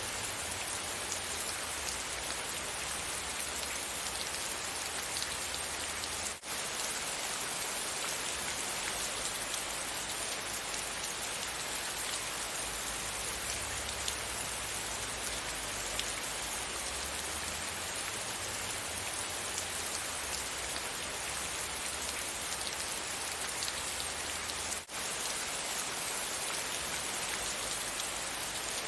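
Steady, even rain pattering down. Twice the sound cuts out for an instant, about six seconds in and near the end.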